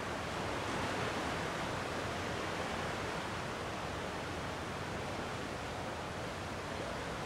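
Gentle sea waves washing on the shore in a steady, even wash of noise, swelling slightly about a second in.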